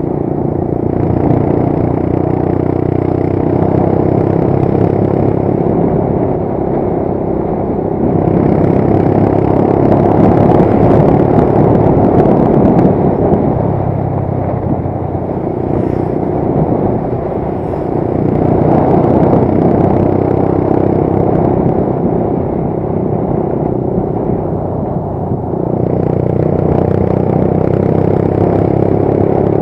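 Motorcycle engine running steadily under way, with road and wind noise. It grows louder twice for a few seconds.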